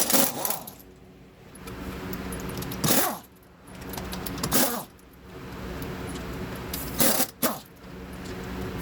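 A few sharp clanks and rattles of tools and parts being handled in a workshop, spread out over several seconds, over a steady low hum.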